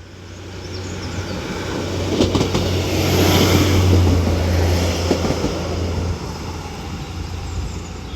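Northern Class 156 diesel multiple unit passing through slowly: a low diesel rumble and wheel noise swell to a peak about three to four seconds in, then ease away, with a few clacks along the way.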